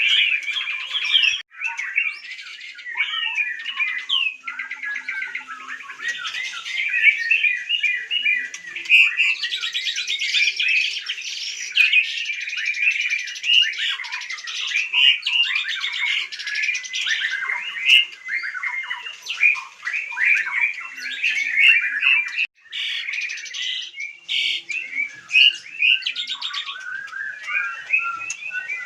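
White-rumped shama (murai batu) singing continuously: a rapid, varied stream of whistled and chattering phrases, briefly cutting out twice.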